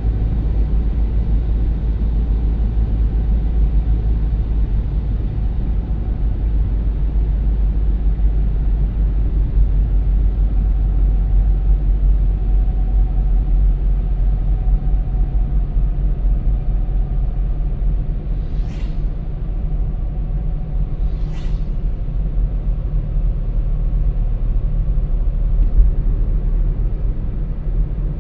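Steady low rumble of a car's road and engine noise heard while driving, with two short hisses about three seconds apart past the middle.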